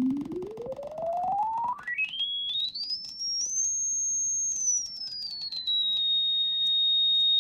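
Pure sine-wave test tone sweeping up from a low hum to a high whistle over about three seconds, with stepped jumps near the top. It holds briefly, then glides partway back down and holds steady. Faint clicks come while the pitch is being changed.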